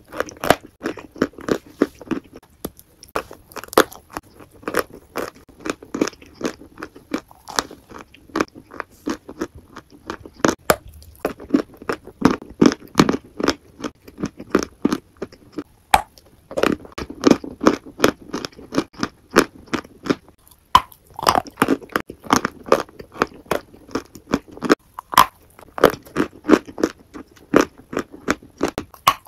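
A person biting and chewing crunchy food close to the microphone: rapid crisp crunches with chewing sounds between them, in runs broken by short pauses.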